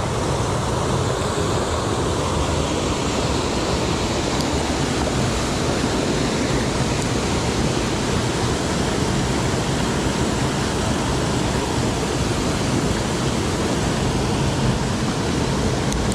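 Mountain stream water rushing steadily, a loud, even rush with no pauses.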